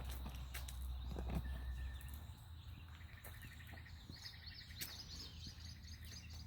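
Faint outdoor morning ambience: birds chirping and calling, over a steady high-pitched insect drone. A low rumble fades out about two seconds in.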